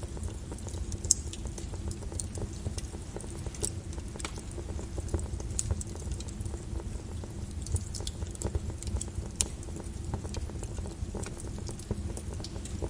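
Volcanic lava flow crackling and popping irregularly over a steady low rumble.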